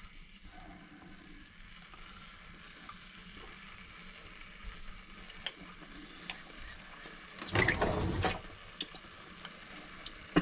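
Scattered light clicks of a utensil at a pot of simmering soup, then one short, loud noisy burst about three-quarters of the way through, during a spoon taste test of the soup.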